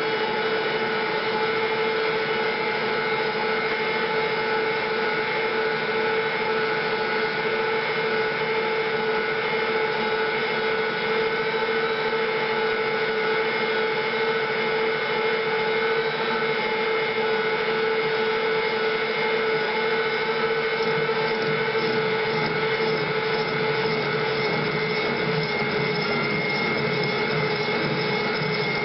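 A machine tool running steadily with a constant whine, its pitch dipping slightly about two-thirds of the way through.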